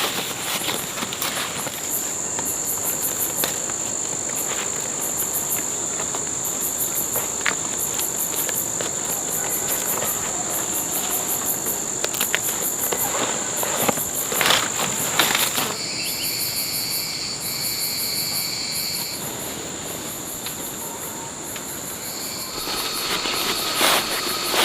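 Insects chirping and droning in a chorus: a steady high buzz with faster pulsed trills above it, and a few clear whistling tones joining about two thirds of the way through. Scattered clicks and rustles, loudest a little past the middle.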